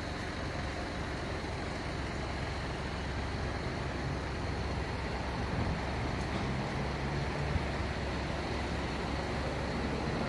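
A heavy vehicle's engine running steadily with a low hum, growing a little louder toward the end.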